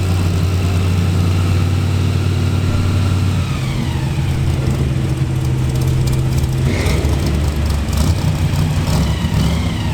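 Supercharged big-block Chevy V8 drag engine idling, its pitch stepping up slightly about a third of the way in and turning rougher near the end.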